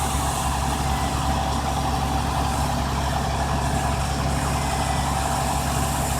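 Tow truck's engine idling steadily.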